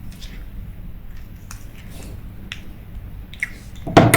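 Daiwa 1000X spinning reel being cranked by hand, its gears turning smoothly with only faint light clicks and no grinding: a reel in sound working order. A loud knock sounds about four seconds in.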